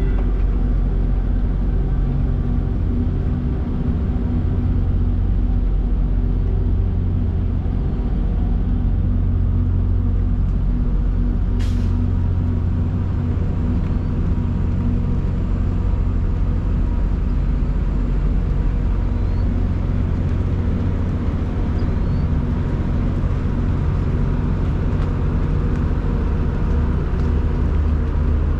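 Semi truck under way: a steady low diesel engine drone with road noise. One short sharp click about twelve seconds in.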